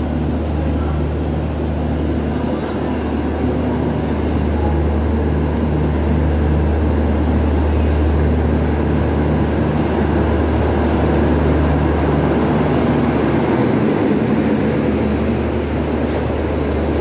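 Indian Railways LHB passenger coaches rolling slowly past along a station platform, a steady low drone of wheels and running gear that holds level throughout.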